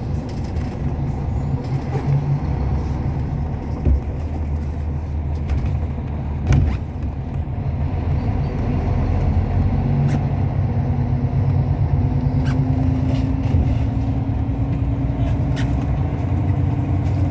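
Hyundai Universe Space Luxury bus on the move, heard from inside the cabin: a steady low engine drone and road rumble, with an engine tone that rises slowly through the second half. Two sharp knocks come about four and six and a half seconds in.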